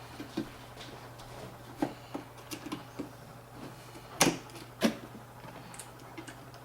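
Small clicks and plastic handling as a memory stick is pressed into a motherboard DIMM slot, then two sharp clicks about half a second apart a little past the middle as the slot's latches snap shut on the seated stick. A faint steady hum underneath.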